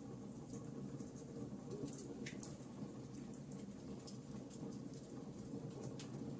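Wood fire burning in a fireplace: irregular sharp crackles and pops over a steady low background, with a louder pop a little over two seconds in.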